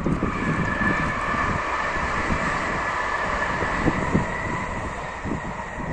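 Wind buffeting the microphone of a moving bicycle rider, under a steady high whine that holds through and fades slightly near the end.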